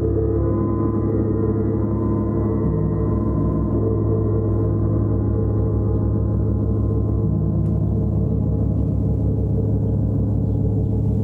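A gong played continuously in a sustained, shimmering wash: many overlapping low tones that swell and shift in pitch emphasis, with no separate strikes standing out.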